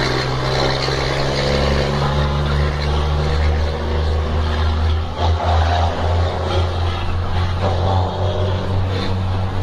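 Car engine running steadily with a low hum while driving, heard from inside the cabin.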